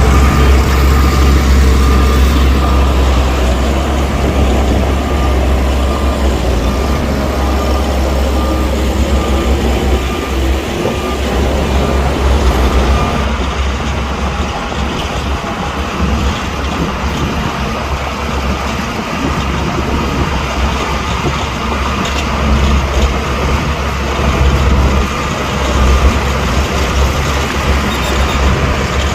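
Heavy diesel earthmoving machinery working: a deep, steady engine rumble that eases off through the middle and picks up again near the end.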